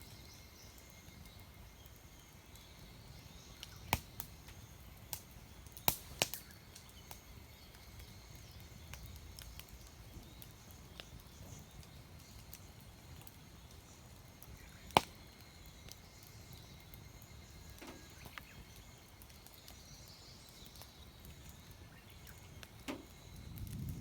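Firewood in a campfire burning quietly, with a few sharp pops and cracks scattered through: several close together around 4 to 6 seconds in, the loudest about 15 seconds in, and another near the end.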